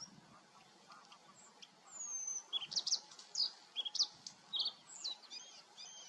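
A bird singing a quick run of short, high, varied chirps and whistles, starting about two seconds in.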